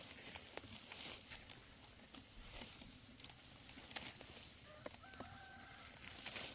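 Chickens calling faintly, with a short call about five seconds in, over scattered light knocks and rustles.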